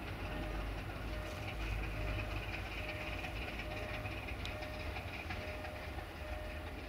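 Diesel train approaching, its engine a steady low rumble under a faint hiss of wheels on rail. Through it runs a thin intermittent tone, repeating a little faster than once a second.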